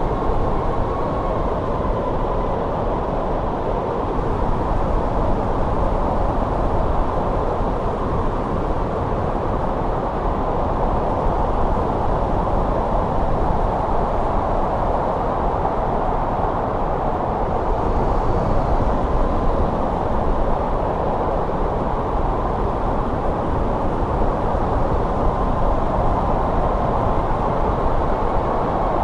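Winter snow wind blowing steadily: a low rushing noise with a faint whistle that wavers in pitch.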